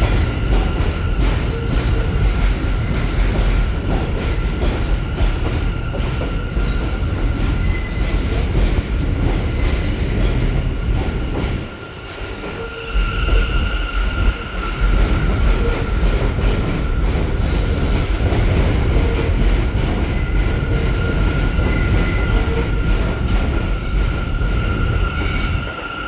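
New York City Subway J train pulling into the station: heavy rumble and clatter of the wheels over the rails, with a steady high-pitched wheel squeal throughout. The level dips briefly a little under halfway through, then picks up again.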